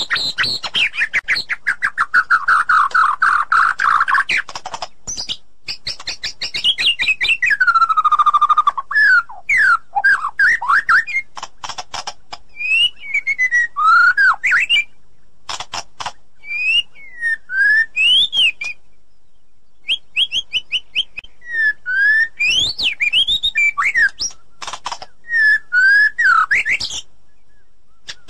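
White-rumped shama singing loudly. It opens with a fast, rattling trill of rapid notes, then gives a long falling whistle and goes on with varied, clear whistled phrases, rising and falling, with short pauses between them.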